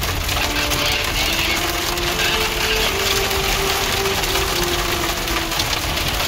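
Rain beating on the Jeep Wrangler's roof and windshield, heard from inside the cabin as a dense, even crackle. A faint steady hum runs underneath through most of it.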